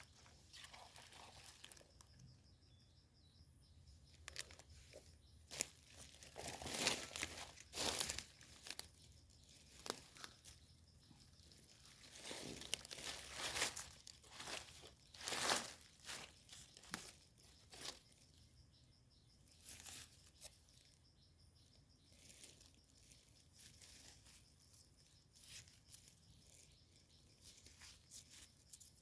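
Irregular rustling and crackling of leaf litter and soil while termite mushrooms are pulled up and gathered by hand, busiest in the middle.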